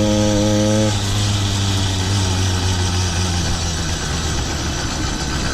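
Small two-stroke engine of a motorized bicycle running under way, a steady low drone with a higher, pitched engine note over the first second, over a hiss of wind and road noise.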